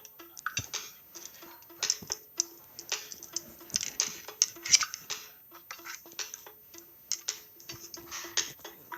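Irregular ticking and rattling clicks with short, faint low tones repeating underneath, a Samsung Galaxy phone ringtone playing.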